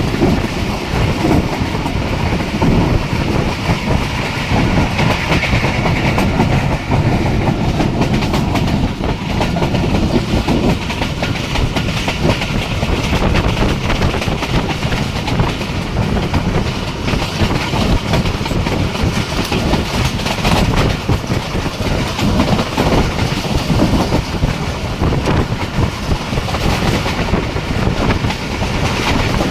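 Passenger express train running at speed, its wheels clattering over the rail joints in a steady, loud run of sharp clicks over continuous running noise.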